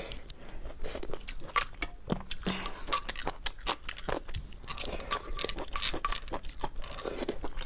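Close-miked chewing of a mouthful of luosifen rice noodles and tofu skin, a steady run of quick wet clicks and smacks.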